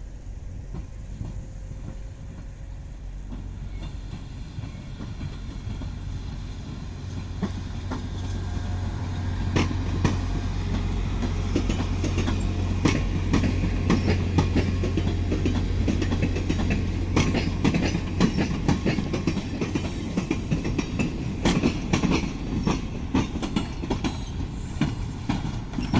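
Passenger train rolling past, its wheels clicking and knocking over rail joints and switch points as it crosses over to another track. A steady low drone swells over the first several seconds, and the clicks come thick and fast from about a third of the way in.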